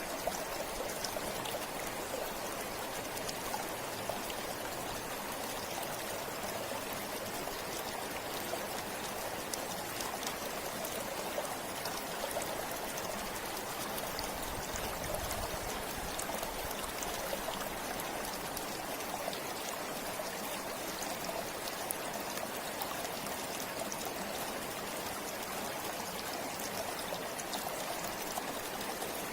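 River water flowing steadily over rocks, a continuous rushing with small splashes and trickles.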